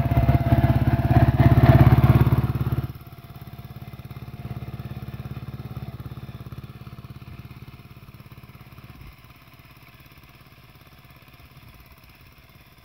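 Small petrol engine of a Yağmur YET 510 motor hoe (rotary tiller) running fast for about three seconds, then dropping suddenly to a much quieter idle that settles lower still about nine seconds in.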